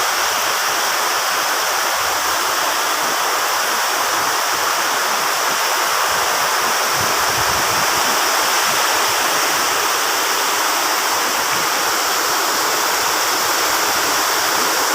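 Heavy rain pouring down steadily in a tropical storm, a dense, unbroken hiss of water.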